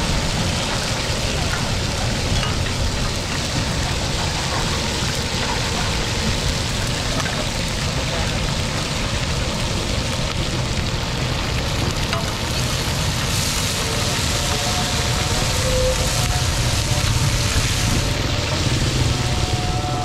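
Hot oil sizzling steadily as hoy tod, crispy shellfish omelette in egg batter, fries on a wide flat griddle pan.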